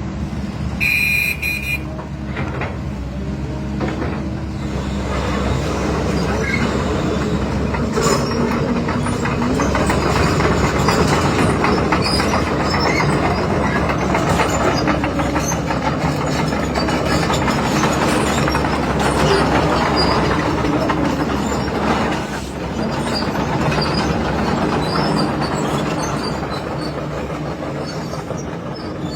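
Excavator's diesel engine running steadily under working load, with scattered clanks and a brief high beep about a second in.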